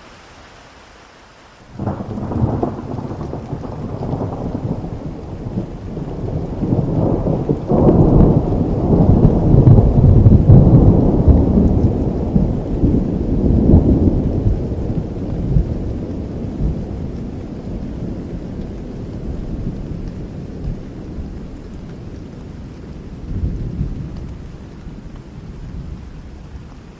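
Thunder over steady rain: a long low rumble breaks in suddenly about two seconds in, builds to its loudest over the next several seconds, then slowly dies away, with a smaller rumble near the end.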